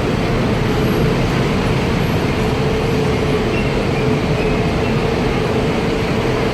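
Heavy road traffic: a steady, loud rumble of engines with a constant hum running through it.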